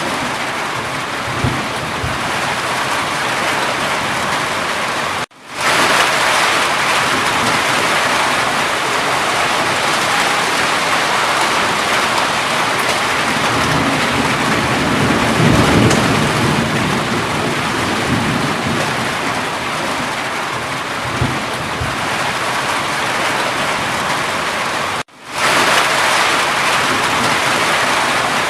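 Steady heavy rainfall, with low rumbles of distant thunder swelling and fading around the middle. The rain cuts out to silence for a moment and quickly fades back in twice, about five seconds in and near the end.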